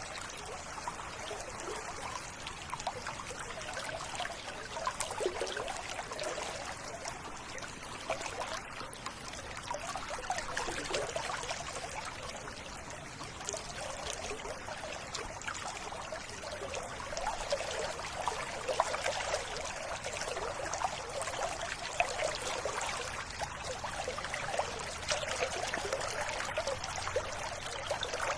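River water running with a steady trickling sound.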